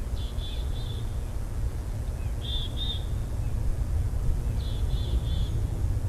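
A small bird gives three short bursts of two to four high, quick call notes, over a steady low rumble.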